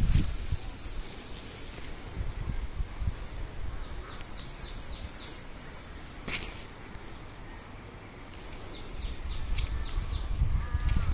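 A songbird singing two quick runs of short, high, downward-sliding notes, over a low rumble on the microphone; a sharp click about six seconds in.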